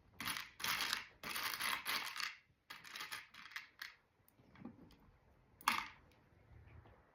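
Small plastic Lego pieces being handled and clicked together: a run of rattling clicks over the first four seconds, then one sharp snap about six seconds in as two pieces are pressed together.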